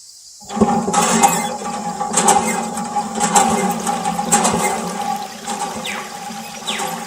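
Miniature DIY water pump running, its small motor humming steadily while water gushes and splashes out, starting about half a second in.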